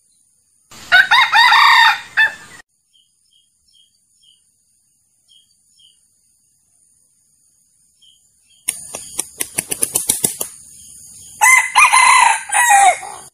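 Male junglefowl crowing twice, with a quick run of sharp wing-beats just before the second crow.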